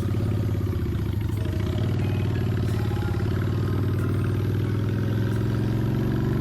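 Motorcycle engine idling steadily before riding off.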